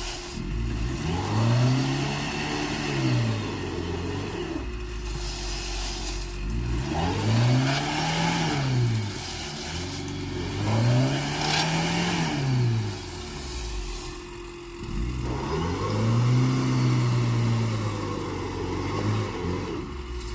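A car's engine revved up and back down four times, each rev lasting a few seconds, as the car tries and fails to drive out of a spot where it is stuck off-road.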